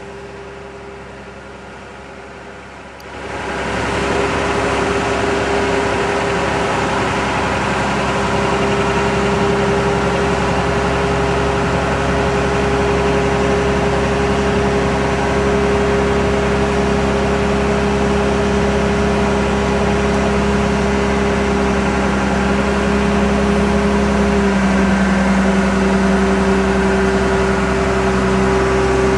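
Grove GMK5210 mobile crane's diesel engine and hydraulics running with a steady hum and whine. The sound grows much louder about three seconds in, then runs evenly.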